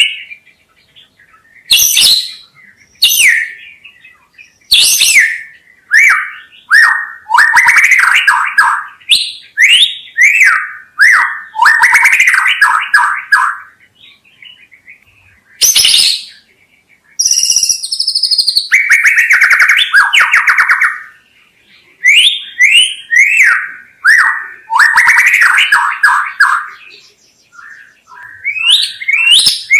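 White-rumped shama (murai batu) singing a string of loud, varied phrases with short pauses between them. The phrases mix clear whistled notes and sweeps with fast rattling runs of repeated notes.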